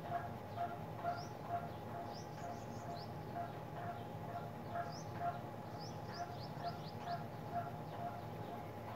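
Birds chirping: short high chirps come now and then over a lower call repeated two or three times a second.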